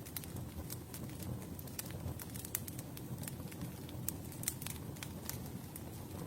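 Campfire burning, with a steady low rumble of flames and irregular sharp crackles and pops from the burning wood.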